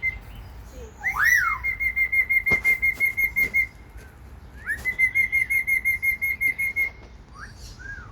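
A songbird whistling two runs of quick repeated notes, about eight a second and each run about two seconds long. Each run opens with a swooping slur. A short sharp click falls within the first run.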